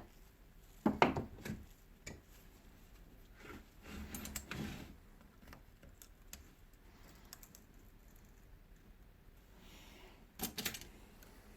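Small metal clicks and scrapes as a steel retaining ring (circlip) is worked off the shaft of a Hilti DD 130 core drill: a sharp click about a second in, a short scraping stretch around four to five seconds, and a quick run of clicks near the end.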